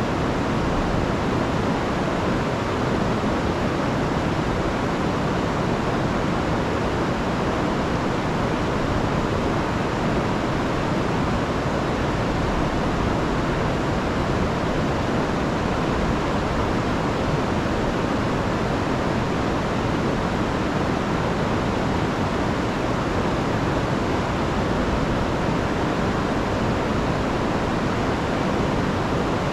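Rain-swollen river rushing, a steady even roar of water.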